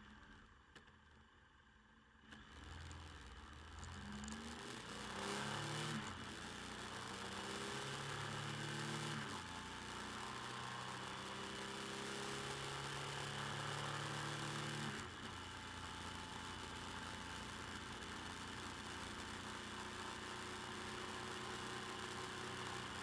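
Motorcycle engine picking up speed after a quieter first two seconds, its pitch rising in steps through gear changes, then holding steady; about two-thirds of the way through the revs drop suddenly and it settles to a steady cruise, with wind noise on the bike-mounted camera's microphone.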